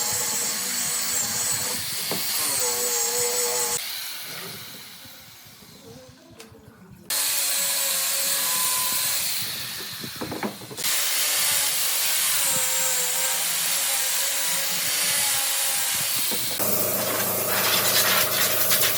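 Power tools working wood, heard in several short clips joined with sudden changes in sound. A quieter stretch about a third of the way in gives way to louder machining.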